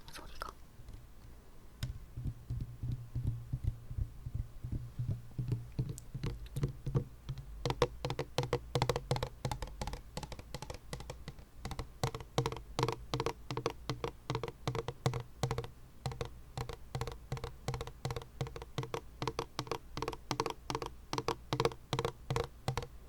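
Rapid soft clicks and taps close to the microphone, sparse at first and coming several a second after about seven seconds.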